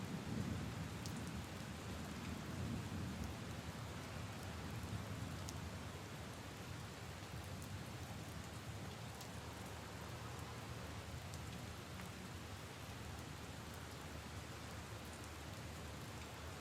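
Steady rain falling on leaves and puddles, with scattered individual drop ticks. A low thunder rumble fades away over the first few seconds.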